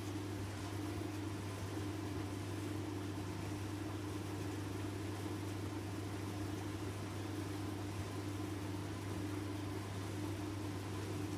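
Hoover Computer Logic D6330 vented tumble dryer running: a steady low motor hum with even whooshing noise, unchanging throughout.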